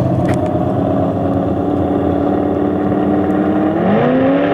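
Chevy S10 drag truck's carbureted engine running with the exhaust baffles off, holding a steady speed and then revving up about four seconds in. It is crackling and breaking up, a misfire that the owner, having ruled out carburetor, fuel, plugs and wires, puts down to the distributor.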